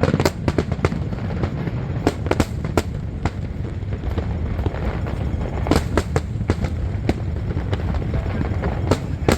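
Fireworks exploding in an irregular series of sharp bangs, bunched in clusters, over a steady low rumble.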